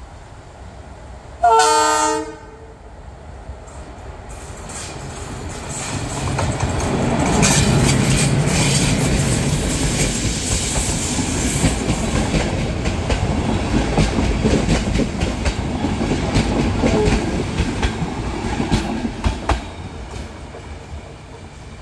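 CFR electric locomotive EA 819 sounds one short horn blast, then the locomotive and its InterRegio train approach and pass, wheels clicking over rail joints, fading near the end.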